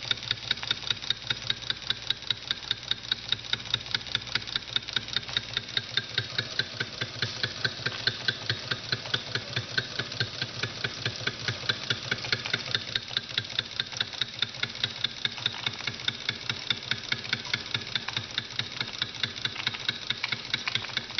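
Wilesco model steam engine running steadily under steam from a Jensen boiler, beating out an even, rapid rhythm of sharp strokes.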